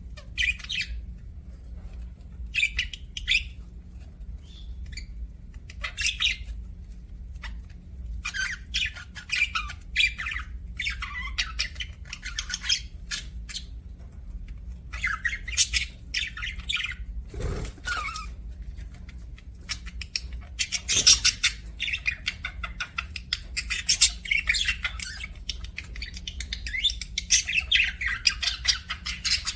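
Budgerigars chirping and chattering in irregular bursts that come thicker after the first few seconds, over a steady low hum.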